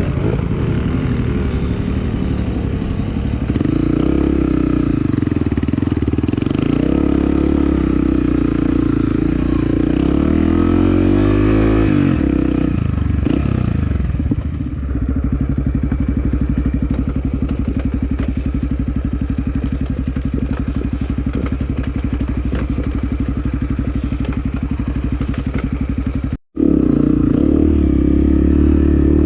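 Off-road trail motorcycle engine running under way, its pitch rising and falling as the throttle is worked, then holding steadier in the second half. The sound cuts out for an instant near the end.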